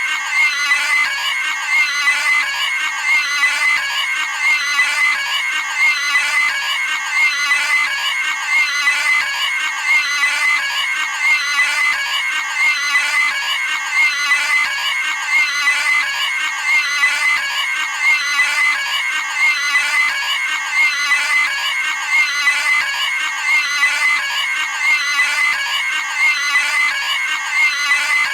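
Cartoon pig squealing sound effect, the same short high-pitched squeal looped over and over at an even pace, about once every second and a half.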